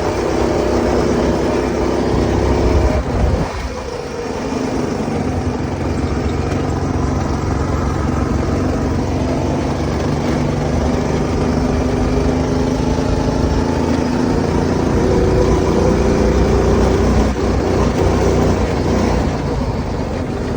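Go-kart's small engine running on a new 30 mm carburetor, its pitch rising and falling with the throttle. The sound dips briefly about three seconds in.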